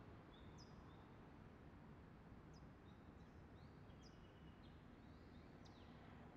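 Near silence: faint room-tone ambience with a few thin, high bird chirps scattered through it.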